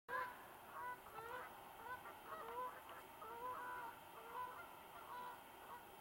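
Birds calling: a run of short, upward-bending calls, several overlapping at different pitches, about two a second, faint.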